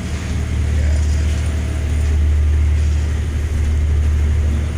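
Steady low drone of a tanker's engines and shipboard machinery, with a faint hiss above it.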